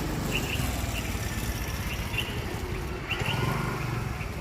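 A bird giving short, sharp 'keech keech' calls in pairs, three times, over a steady low background rumble.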